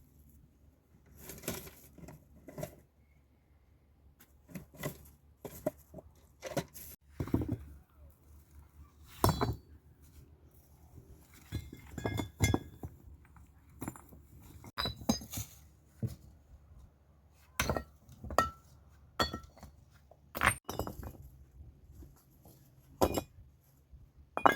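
A series of irregular clinks and knocks of hard objects striking one another, a few with a brief ringing.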